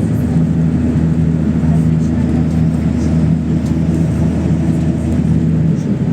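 PAZ 32054 bus engine running at a steady pitch while the bus drives, heard from inside the passenger cabin, with road and body noise underneath.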